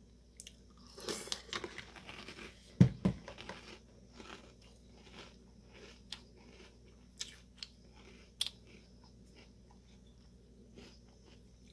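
A person chewing a mouthful of crunchy chocolate puffed cereal, Malt-O-Meal Coco Roos, close to the microphone: faint, irregular crunching and mouth clicks. A dull thump sounds about three seconds in.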